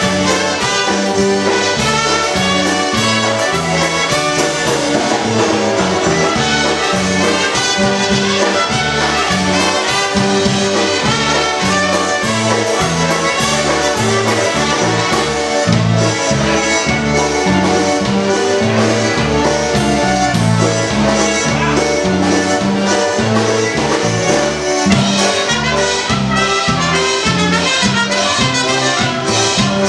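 Live polka band playing an instrumental passage, led by trumpet and trombone, over a steady oom-pah bass beat.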